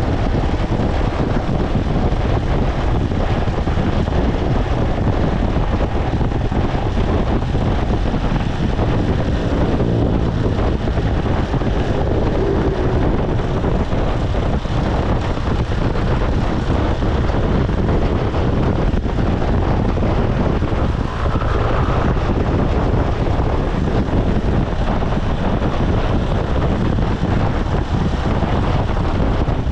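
Motorcycle riding along a road: the engine runs steadily under a constant rush of wind on the microphone and road noise.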